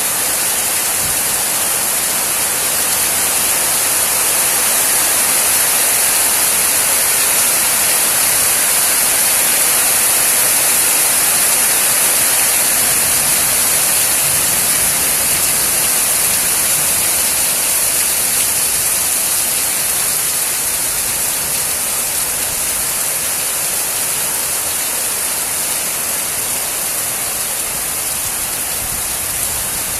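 Steady rain falling, an even, dense hiss with no pauses.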